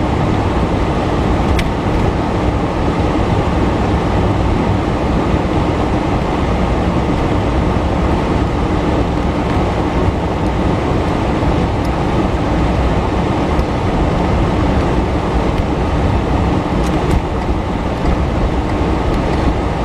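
Steady road noise of a car being driven, with the low rumble of engine and tyres running on evenly.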